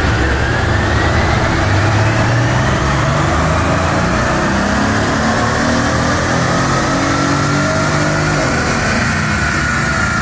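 Mercedes-Benz SL's engine making a dyno pull in fourth gear on a chassis dynamometer: the engine and drivetrain pitch climbs slowly and steadily as the revs rise under load, over a steady rushing noise.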